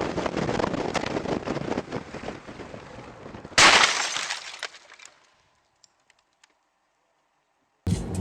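Vehicle crash: a run of crunching, cracking and breaking noise, then a sudden, loudest impact about three and a half seconds in that dies away within a second or two.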